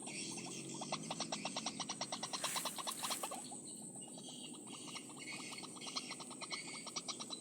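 Rapid, evenly pulsed croaking animal calls, about ten pulses a second, over a steady high whine.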